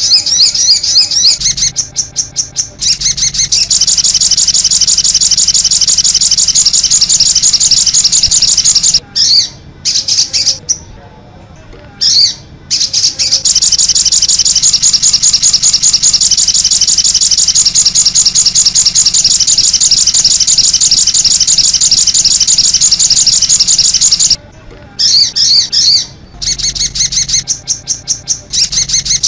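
A sogon bird singing its 'cit anten' song: a long, very fast run of high chirps that is loud and nearly continuous, with a couple of short breaks partway through.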